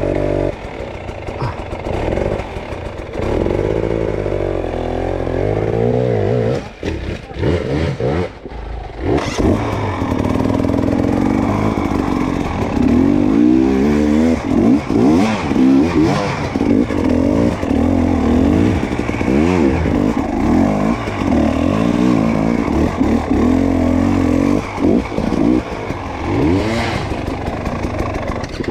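Dirt bike engine revving hard and unevenly, the revs rising and falling again and again as the throttle is worked, with some clatter. The engine drops off briefly about a quarter of the way through, then runs at higher, busier revs for the rest.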